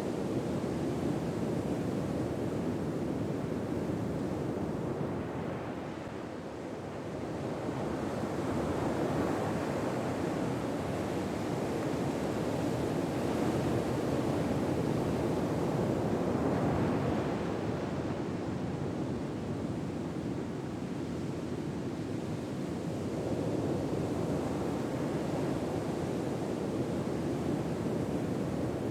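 Ocean waves washing in, a continuous surf that slowly swells and eases.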